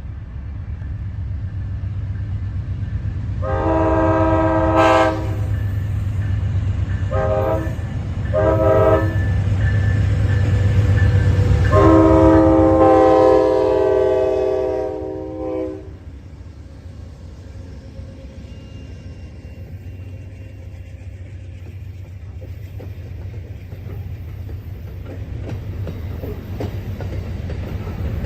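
Amtrak Southwest Chief's diesel locomotives pulling out, a low engine rumble building under a multi-chime air horn: one long blast about three seconds in, two short blasts around seven and eight seconds, then a long blast of about four seconds from twelve seconds. After the horn the train rolls on past, its wheels clicking over the rail joints.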